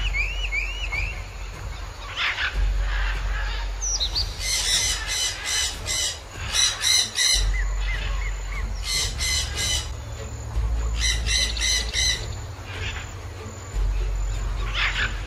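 Birds calling: a few thin chirps near the start, then several bouts of rapid, harsh squawks, each bout lasting one to three seconds.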